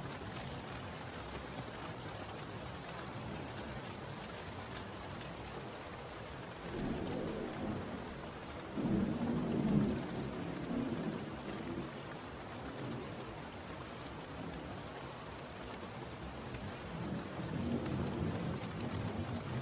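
Steady rain falling, with rumbles of thunder rolling in about seven seconds in, loudest a couple of seconds later, and another rumble near the end.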